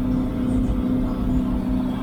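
John Deere 4440 tractor's six-cylinder diesel engine running steadily, a constant drone with a low rumble.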